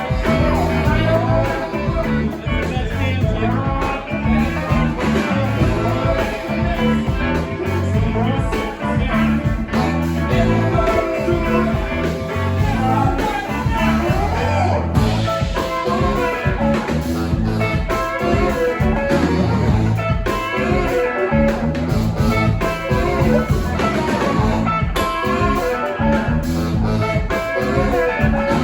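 Live band playing a blues number, guitar to the fore over a steady beat.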